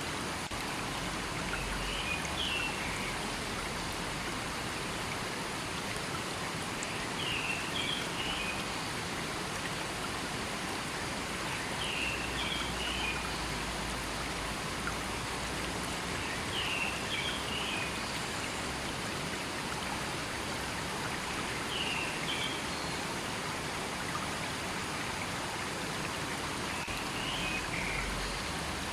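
River water running steadily, with a short high chirp, likely a bird, recurring about every five seconds.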